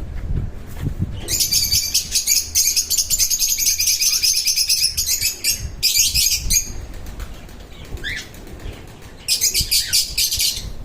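Corella giving harsh, rasping screeches: a long one of about four seconds, a short one just after, and another near the end.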